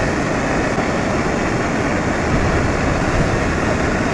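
Heavy rain and strong wind beating steadily on a tent, heard from inside as a continuous roar.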